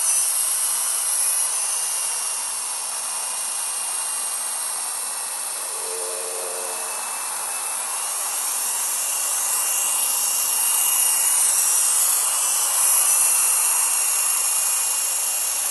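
Toy RC helicopter's small electric motor and rotor blades running with a high, steady whine whose pitch drifts up and down as the throttle changes.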